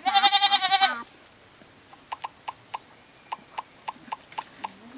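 A goat bleats once, a loud quavering call about a second long. After it comes a run of faint clicks, roughly four a second.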